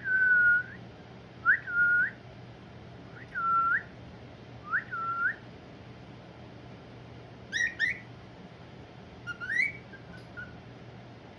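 Pet cockatiel whistling: four repeated calls, each a quick upward sweep into a held level note, then a few short sharp chirps.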